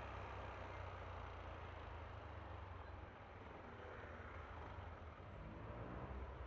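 Steady riding noise on a Yamaha Aerox V3 scooter: a low rumble of engine and wind with road hiss, easing slightly about halfway through and building again near the end.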